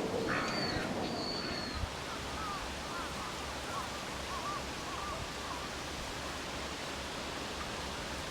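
Outdoor ambience: a steady hiss of background noise with small wild birds calling faintly, two thin high whistles in the first two seconds, then a run of quick little chirps.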